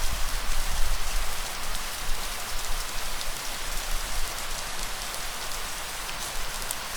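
Steady heavy rain, a dense even hiss of drops, with a low rumble underneath that swells during the first two seconds.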